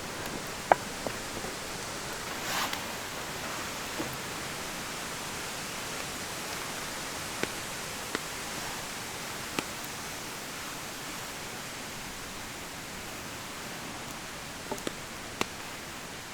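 Steady rain falling in a forest, an even hiss, with a few sharp ticks scattered through it and a brief rustle about two and a half seconds in.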